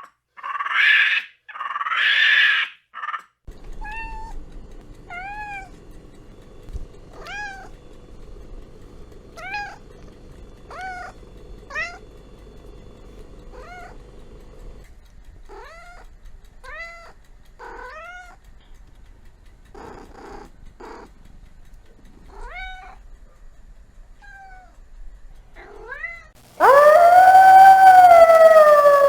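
A cat, likely a kitten, meowing over and over in short high-pitched mews about a second apart, after two short noisy bursts at the start. Near the end a loud, long canine howl begins.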